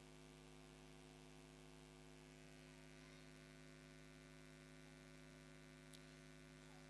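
Near silence with a faint, steady electrical hum, and a single faint click about six seconds in.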